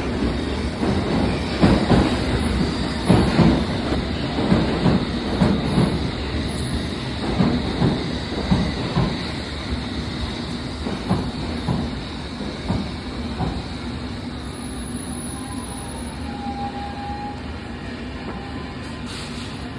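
London Underground train running into the platform and braking, its wheels clattering over the rail joints with clacks that come more slowly as it slows. It then settles to a steady hum as it stands at the platform.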